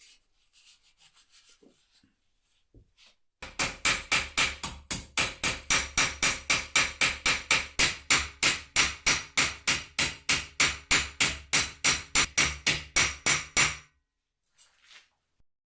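Rhythmic scraping or rubbing strokes of a hand tool on a part being restored, about four strokes a second, each swelling and then cutting off. They start suddenly a few seconds in and stop abruptly near the end, after a few faint scratches.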